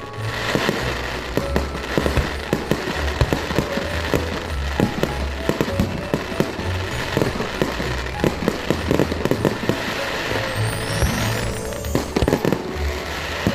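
Fireworks going off in quick, irregular succession: many bangs and crackles, with music playing underneath. A rising whistle is heard near the end.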